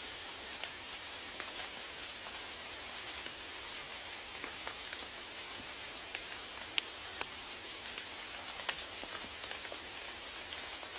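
Steady rain falling, a soft hiss with many individual raindrops ticking sharply at irregular moments.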